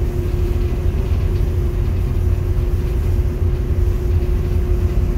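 Boat's engine running steadily: a continuous low rumble with a constant hum over it.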